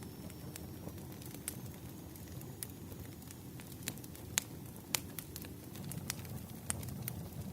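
Wood fire crackling: irregular sharp pops and snaps from burning logs, a couple of louder pops around the middle, over a steady low rumble.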